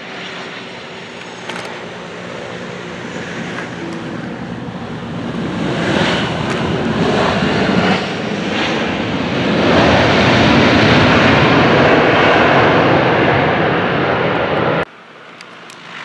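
Airplane engine noise with a steady low drone that grows louder to a peak about two-thirds of the way through, then cuts off suddenly near the end.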